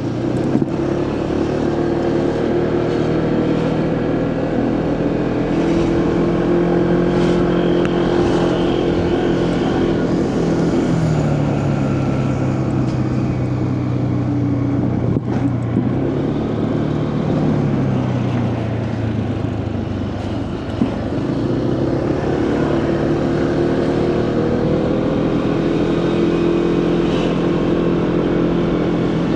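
Motorcycle engine running while riding, its note dropping about a third of the way through, rising briefly, dipping again about two-thirds through and then climbing as the bike slows and speeds up, over steady wind and road noise.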